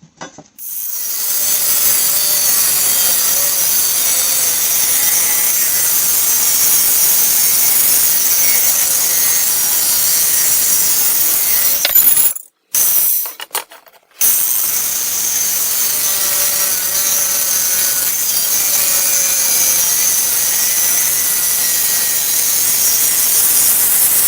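A power tool cutting through a worn steel mower blade: a steady, harsh cutting noise that breaks off for about a second and a half just past halfway, then carries on.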